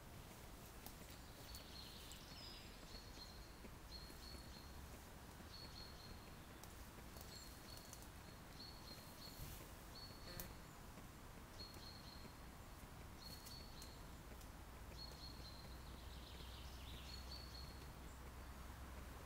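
Faint woodland quiet with a bird repeating one short, high note about once a second, with a few gaps, and a soft knock about ten seconds in.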